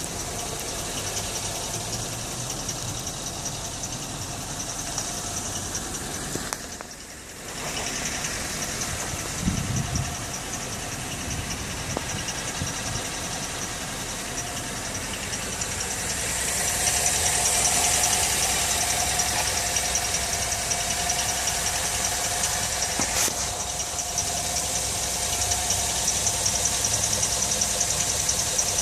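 2010 GMC Terrain engine idling with a fast, steady, high-pitched metal-on-metal chirping, a fault that shows up once the engine is fully warmed up. The chirping grows louder about halfway through.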